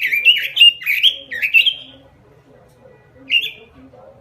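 Pekin robin (red-billed leiothrix) in full song: a fast run of loud, swooping whistled notes, about five a second, that stops about two seconds in, followed by one short phrase a little after three seconds.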